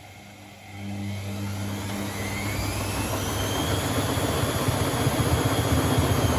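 Privileg Sensation 952 S top-loading washing machine starting a spin: under a second in the motor kicks in, its whine rises in pitch for a few seconds and then holds, while the rush of the spinning drum grows louder.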